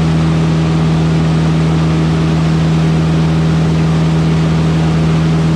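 Steady drone of a Van's RV-8's piston engine and constant-speed propeller in cruise, set at 23 inches manifold pressure and 2400 rpm: a constant hum of several steady tones over an even rush of noise.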